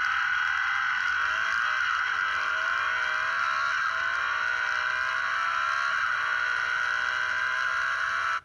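Motorcycle engine running under way, a steady loud rushing sound with a fainter engine note that rises in pitch several times.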